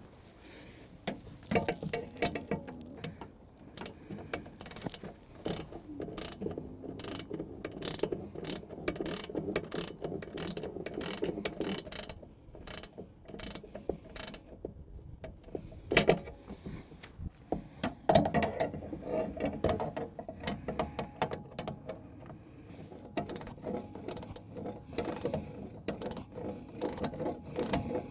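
Ratchet wrench clicking in quick runs as bolts are tightened, with short pauses between runs and a couple of sharper metal knocks past the middle.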